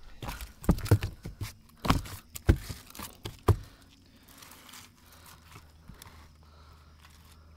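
Close handling noise: a quick run of sharp knocks, clatters and crinkly rustles over the first few seconds, then it settles to a faint steady low hum.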